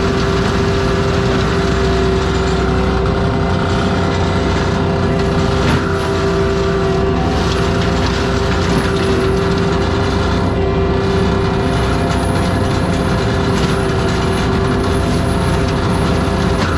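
ASV RT-120F tracked forestry mulcher running under load, a dense mechanical drone with a steady high whine from the spinning mulcher head and hydraulics. There is one brief knock about six seconds in.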